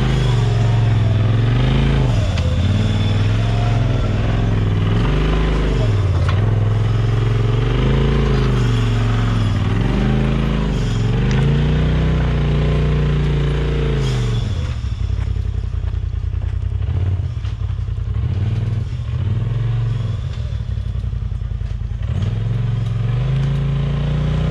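Off-road vehicle engine revving up and down again and again under load on a rough trail. About fourteen seconds in it drops to a low, steady run with a rapid clattering, then revs up once more near the end.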